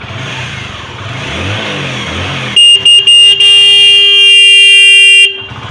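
Hero Splendor iSmart 110 cc single-cylinder four-stroke engine idling just after starting. About two and a half seconds in, a motorcycle horn sounds: a few quick beeps, then a held blast of about two seconds, much louder than the engine.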